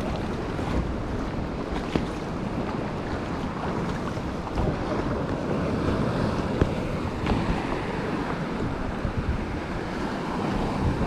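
Wind buffeting the microphone over the wash of ocean swell around a sea kayak, with a few faint knocks.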